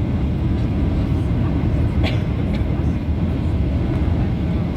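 Steady low rumble of a jet airliner heard from inside the cabin, with a single brief click about two seconds in.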